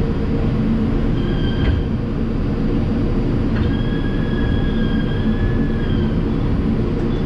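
Steady rumble and hum in a New York City R142 subway car, with two high-pitched steel wheel-on-rail squeals: a short one about a second in and a longer one of about two and a half seconds midway.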